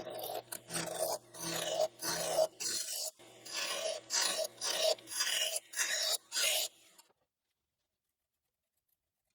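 Wood lathe turning a small spindle, with a run of short rasping, scraping strokes against the spinning wood, roughly two a second, over the faint hum of the lathe motor. It all stops about seven seconds in.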